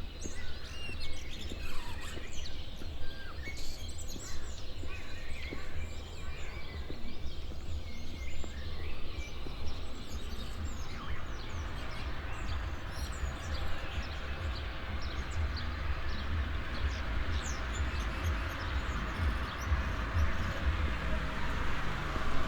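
Many small songbirds chirping and singing in the dawn chorus over a steady low rumble. From about halfway, a steady hiss of flowing water comes up beneath the birds.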